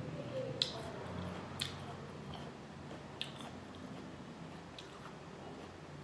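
Close-up chewing of a tortilla chip with salsa: a few sharp, crisp crunches in the first few seconds, then softer chewing.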